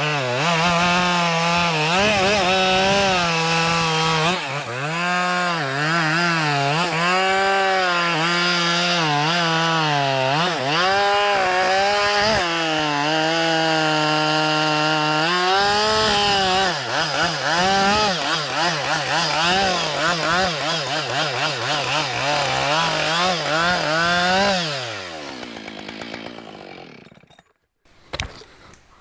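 Chainsaw running at high revs, cutting through a hemlock log, its pitch dipping and recovering again and again as the chain loads up in the cut. About 25 seconds in, the revs fall away and the saw winds down to a stop.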